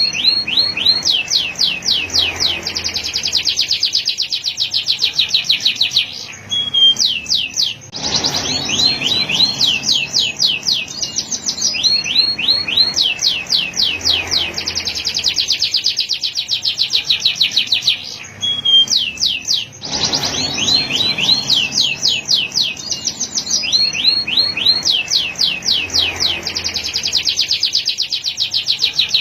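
Male canary singing: long phrases of rapid, repeated high trilled notes, each note a quick sweeping glide, broken twice by short pauses.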